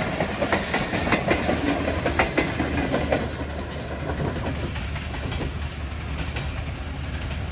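Passenger coaches of an express train rolling past at speed, their wheels clacking rapidly on the track over a steady rumble. About three seconds in the last coach passes, and the clatter thins out and fades as the train moves away.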